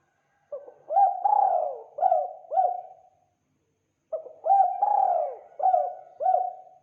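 Spotted dove (tekukur) cooing: two phrases of several low coos each. Each phrase lasts about two and a half seconds, the first starting about half a second in and the second about four seconds in.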